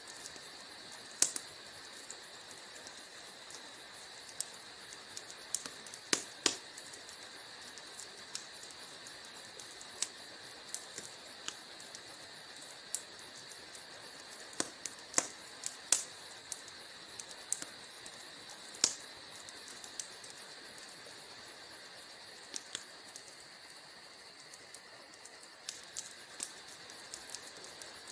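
Wood fire burning in a fireplace, crackling: sharp irregular pops and snaps, a few of them much louder, over a steady soft hiss.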